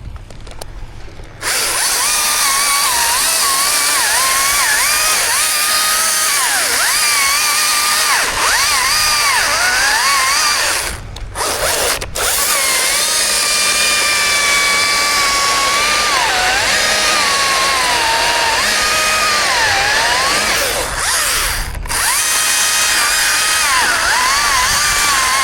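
Two-stroke chainsaw started up to full throttle and cutting wood, its engine pitch sagging and recovering as the chain loads in the cut. The throttle is let off for a moment about eleven seconds in and again about twenty-two seconds in.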